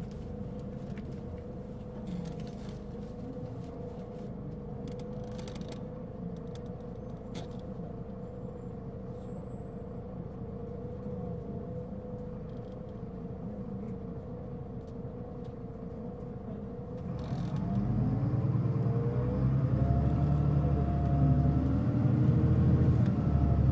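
Mitsubishi Fuso Aerostar city bus's diesel engine heard from inside. It idles with a steady tone and a few clicks for most of the stretch, then revs louder about three quarters of the way in as the bus pulls away, its pitch rising and falling with the gear changes.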